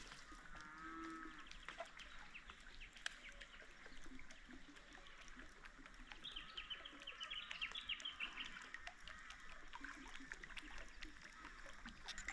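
Faint birds calling, with a quick run of chirping notes in the middle. A short drawn-out animal call comes about a second in, and there are a few light clicks.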